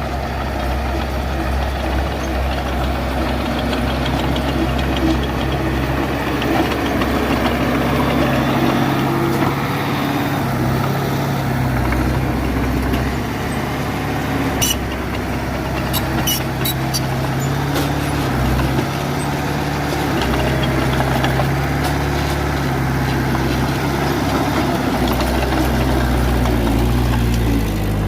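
Heavy diesel engine of earthmoving machinery running under changing load, its pitch stepping up and down several times. About halfway through comes a short cluster of sharp metallic clicks.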